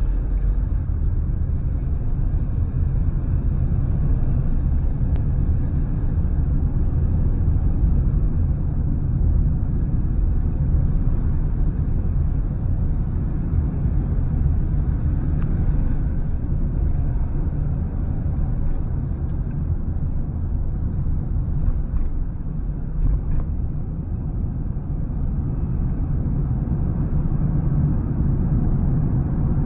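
Road and drive noise inside the cabin of a Honda Step WGN Spada Hybrid on the move, a steady low rumble, with a few faint clicks from time to time. The clicks are an abnormal rattle that the owner traces to the Honda Sensing camera unit at the top of the windshield.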